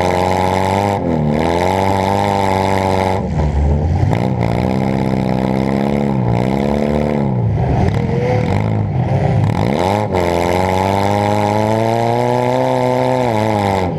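Demolition derby car's engine heard from inside the car, revving up and down over and over as the throttle is worked, the revs dropping sharply and climbing again about every one to three seconds.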